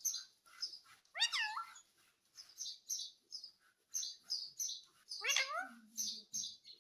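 Indian ringneck parrot making quick repeated high chirps, with two louder rising, whistled calls, one about a second in and another about five seconds in.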